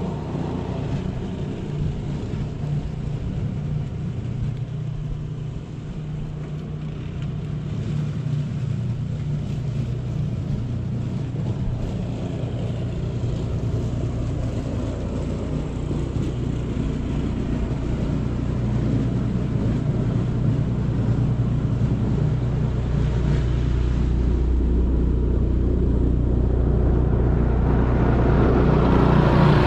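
A motor vehicle's engine running steadily with a low hum, growing louder toward the end as a rushing noise builds on top.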